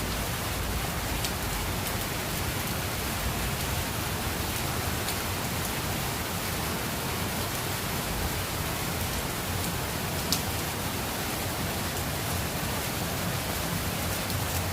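Heavy rain falling in a steady downpour, with a few sharp drop hits now and then, the loudest about ten seconds in.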